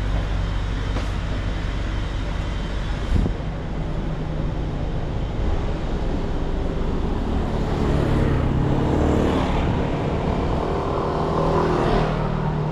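Motor vehicle engines running close by in road traffic, with a single knock about three seconds in. In the second half one engine note climbs higher as a vehicle passes.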